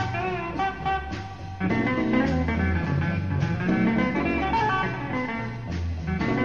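A sixties beat band playing a blues in F: electric lead guitar over organ, bass and drums. The old tape recording cuts off the high treble.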